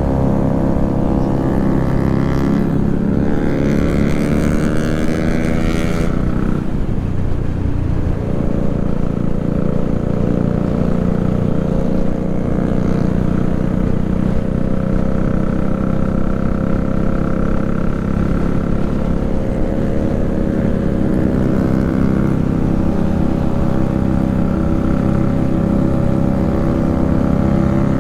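Motorcycle engine rising in pitch for about six seconds, dropping sharply at about six and a half seconds, then running at a fairly steady pitch.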